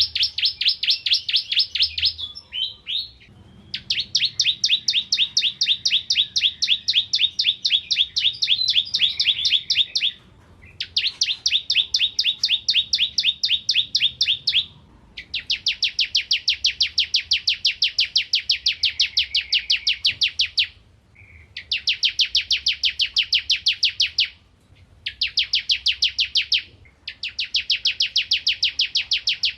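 Ciblek kristal, a prinia, singing in long bouts of rapid, evenly repeated high chipping notes, each bout lasting several seconds with short breaks between them. This energetic, non-stop song is the kind kept as a masteran for teaching songbirds.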